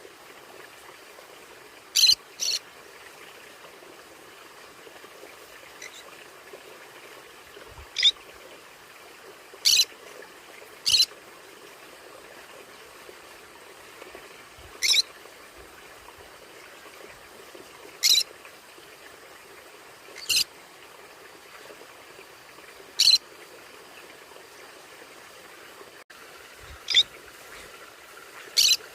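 Conures giving short, sharp, high-pitched calls, about eleven single calls spaced irregularly one to four seconds apart, some in quick pairs.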